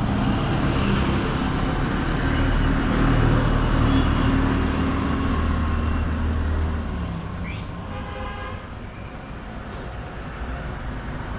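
Road traffic: a motor vehicle's engine runs close by for about seven seconds, then fades. A vehicle horn toots briefly about eight seconds in.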